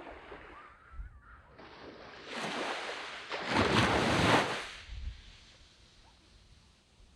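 A sea wave breaking on a sandy beach and washing up the shore. It swells in about two seconds in, is loudest around four seconds, then drains away. Low wind buffeting on the microphone underneath.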